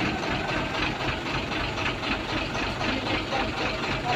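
A heavy truck engine running steadily at idle, with a faint regular pulse and no change in speed.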